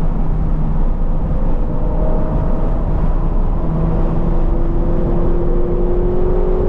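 2020 Toyota 86's 2.0-litre flat-four engine, breathing through a Corsa cat-back exhaust, pulling under load on track. Its note climbs slowly as the car accelerates, over a constant low rumble.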